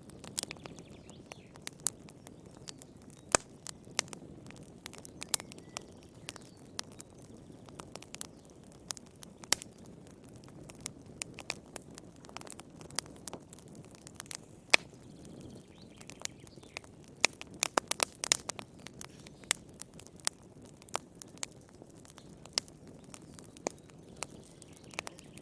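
Wood campfire crackling: irregular sharp pops and snaps over a low steady rush of burning, with a quick run of pops about two-thirds of the way through.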